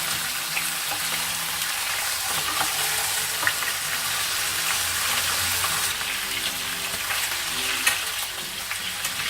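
Chunks of chicken frying in hot oil in a non-stick pan: a steady sizzle with scattered pops and crackles as the skin browns.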